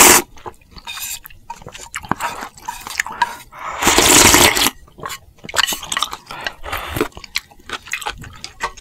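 Close-miked eating: wet chewing with small clicks, and one loud slurp about four seconds in.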